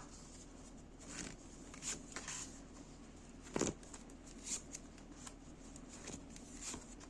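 Faint rustling and light taps of tarot cards being shuffled and laid out, with one louder slap of a card a little past halfway.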